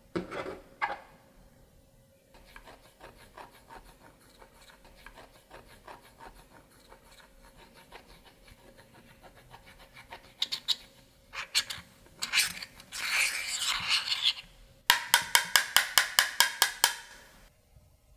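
Makeup being scraped and worked by hand: a rasping scrape, then a run of sharp clicks about four a second.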